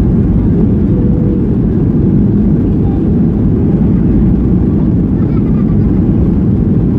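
Steady low rumble of a Boeing 737-800 cabin in flight, engine and airflow noise heard from a window seat at the rear.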